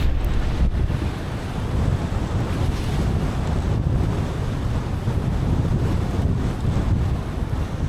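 Steady rushing road noise of a car driving on wet pavement in the rain, with a deep, constant rumble underneath.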